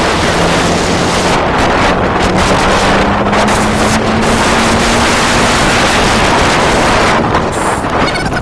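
Wind buffeting the microphone on a moving motorcycle, with the engine's steady note rising slowly in pitch as it gathers speed, then fading out about six seconds in.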